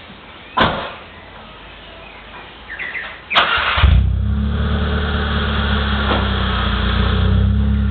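Mitsubishi 4G15 1.5-litre four-cylinder engine of a 1996 Lancer cranking briefly and catching about halfway through, then settling straight into a steady idle through its exhaust. A sharp click comes near the start, and another just before the engine starts.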